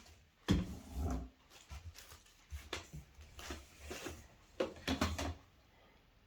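Irregular knocks, clatter and rustling from handling the plastic parts of a bagless vacuum cleaner, with the loudest knocks about half a second in and again near five seconds.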